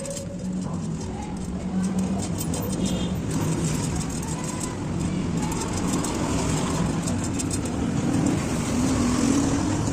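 Street traffic noise with a motor vehicle engine running steadily, its hum rising a little in pitch near the end.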